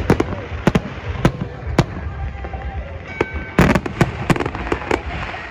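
Fireworks display: an irregular string of sharp bangs and cracks over a continuous low rumble, with a dense cluster of bangs about two-thirds of the way in.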